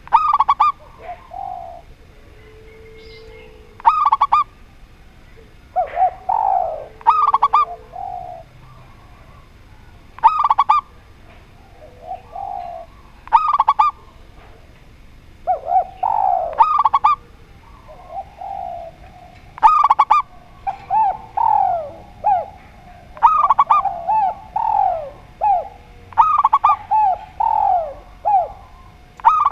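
A spotted dove and a zebra dove cooing against each other. A short, sharp call repeats about every three seconds, with lower, softer coos between that come thicker toward the end.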